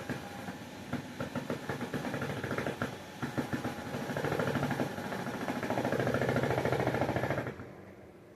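Power screwdriver driving screws: the motor runs with dense rapid clicking for about seven and a half seconds, louder and steadier in the second half, then stops abruptly.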